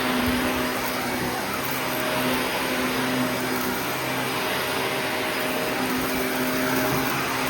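Shark vacuum cleaner running steadily: a motor hum over rushing air, swelling and easing slightly every couple of seconds.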